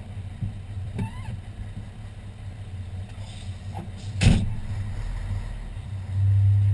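Fire engine's diesel engine running with a steady low rumble while the truck is backed into place, with one sharp clunk a little past four seconds and the engine getting louder about six seconds in.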